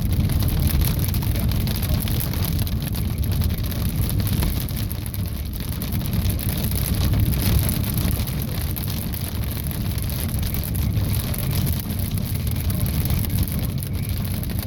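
Rain pattering on a car's roof and windshield over a steady low rumble of the car's road and engine noise, heard from inside the car.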